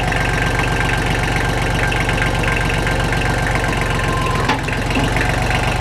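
Kubota L235 tractor's diesel engine running steadily at idle, with a fast, even diesel clatter.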